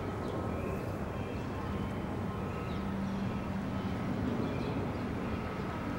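Low, steady rumble of a distant Kawasaki M9 electric multiple-unit train approaching on the rails, blended with city traffic noise, with a few faint bird chirps.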